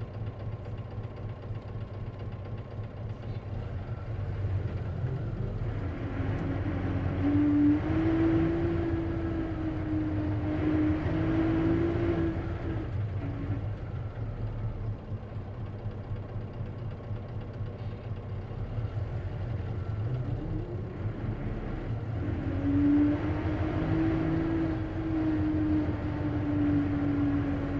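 Isuzu KC-LV380N manual-transmission city bus running, heard from on board, with a whining tone that comes in twice for about five seconds each time. This is the abnormal noise the bus is known for, which the owner thinks may be a symptom of the manual transmission.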